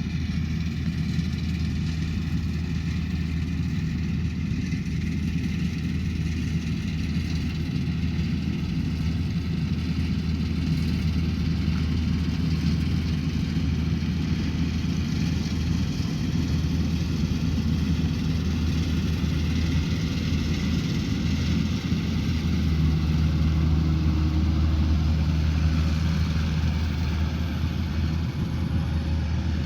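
Rice combine harvester engine running steadily: a low, even drone that swells slightly about two-thirds of the way through.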